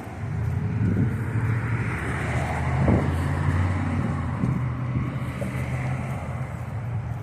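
A car engine running close by: a steady low hum.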